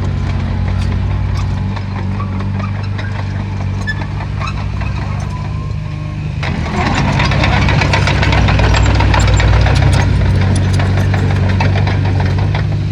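Heavy diesel engine of construction machinery running, with many short clanks and rattles over it. About six and a half seconds in it gets louder and harsher, as if put under load.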